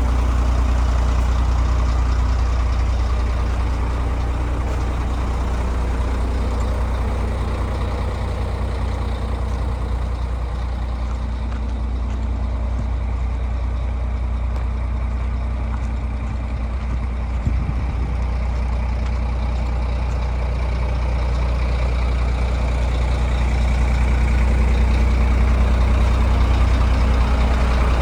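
Scania P380 dump truck's diesel engine running steadily with a deep, even hum, growing a little louder near the end.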